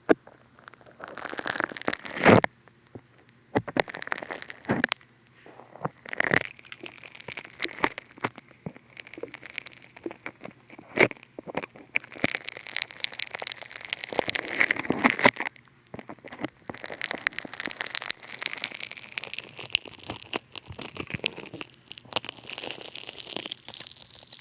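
Funny Foam bath foam squished and rubbed over a binaural dummy head's ear microphones, crackling and popping in irregular bursts close to the mic.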